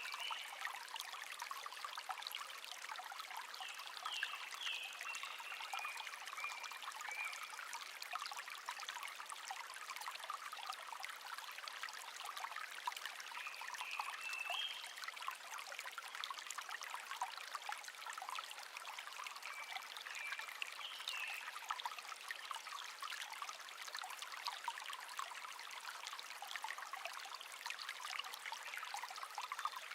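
A shallow stream babbling and trickling steadily, with a songbird singing short phrases of a few chirps now and then, near the start, around a quarter of the way in, near the middle and about two-thirds through.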